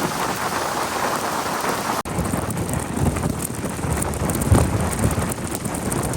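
Steady heavy rain: a dense patter of drops hitting a surface. About two seconds in the sound changes abruptly, with a deeper spattering of drops after the change.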